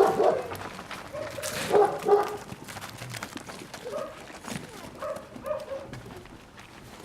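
Central Asian Shepherd puppies barking and yipping in short, repeated calls, loudest at the start and again about two seconds in.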